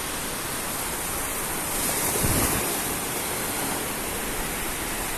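Arabian Sea surf washing onto the shore, a steady rush of noise that swells briefly about two seconds in.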